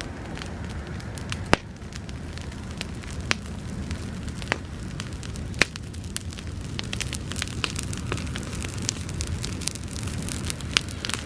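Bonfire of dried grass burning: a steady low rush of flame with frequent sharp crackles and pops, a few of them louder, about a second and a half in, midway, and near the end.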